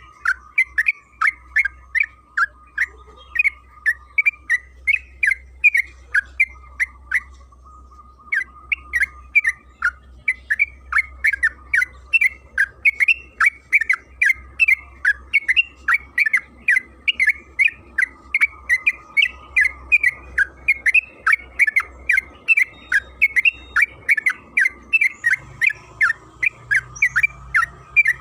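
Yellow-vented bulbul (trucukan) singing a long, continuous run of short, sharp chirping notes, about two to three a second, with a brief pause about eight seconds in.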